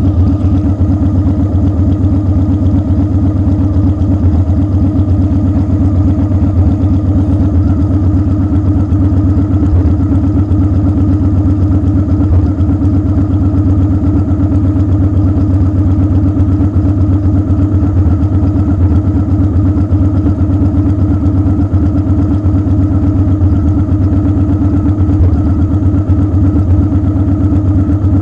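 Motorcycle engine idling steadily, with an even, rapid low beat that does not change.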